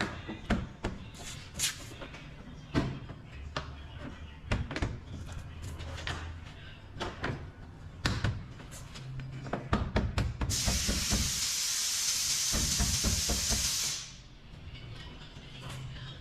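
Scattered clicks and knocks from tools and containers being handled during body-filler work, then a steady hiss of about three and a half seconds, starting a little past halfway, that stops suddenly.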